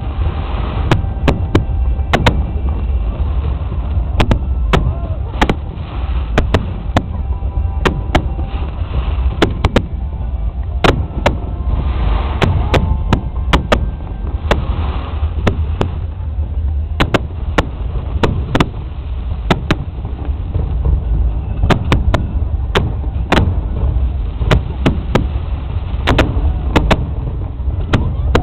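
Fireworks exploding in rapid, irregular bangs, several a second, over a constant deep rumble.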